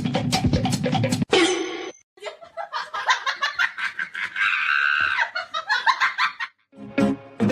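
Drum-backed music stops abruptly about a second in, followed by a few seconds of people laughing in a small room, then music starts again near the end.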